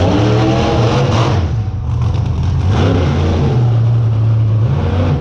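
Monster truck's V8 engine revving hard. It climbs in pitch in the first second and again just before three seconds in, then holds steady at high revs.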